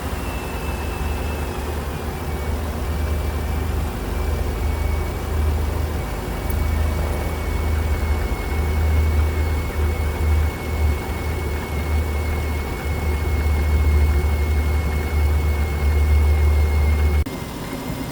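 Chrysler Town & Country's 3.8-litre V6 running a little above idle, with a low rumble and a steady high whine. Both drop back about a second before the end. The engine is being run with the radiator cap off to purge air from the freshly refilled cooling system.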